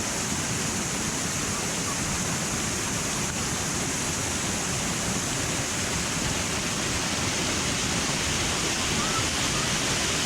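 Madison Falls waterfall heard from close beneath it: a steady, even rush of falling water.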